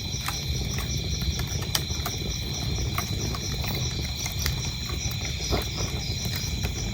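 Wood fire crackling, with scattered sharp pops over a low steady rumble, while crickets chirp in a steady, even pulsing rhythm.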